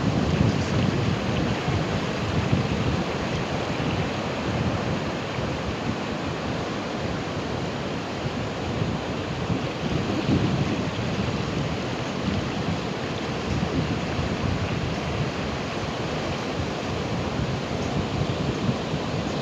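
Ocean surf: a continuous rush of waves on the shore, its low rumble swelling as waves break near the start and again about halfway through.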